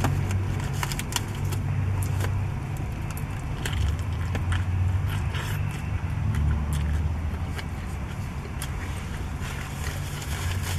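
Chewing on a big bite of burrito, with many short clicks and crackles of mouth sounds and the foil wrap crinkling in the hands, over a steady low hum from the car.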